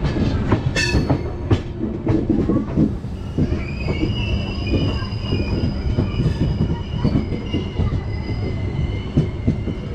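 Grand Trunk Express passenger train running, heard from on board: a steady low rumble with the wheels knocking over rail joints, and a high wheel squeal setting in about three seconds in and holding for several seconds.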